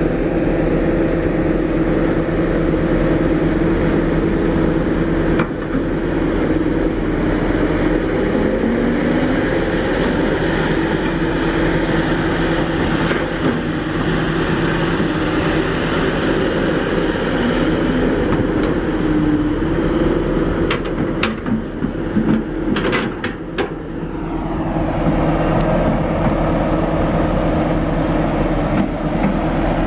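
Kobelco SK350 excavator's diesel engine running steadily under working load, its pitch briefly rising and falling now and then. A few sharp knocks come a little after two-thirds of the way through, and a broader rushing noise sets in soon after.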